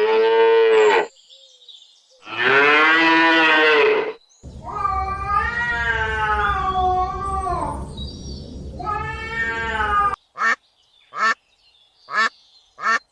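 Cat meowing: two long meows, then a longer wavering yowl. About ten seconds in it gives way to short, evenly spaced quacks, like a duck's.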